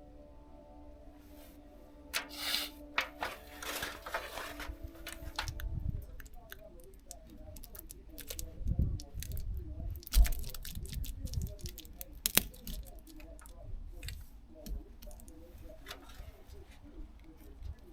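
Scattered clicks, knocks and rustling from handling woodstove pipe parts, with a sharper knock about ten seconds in and another a couple of seconds later.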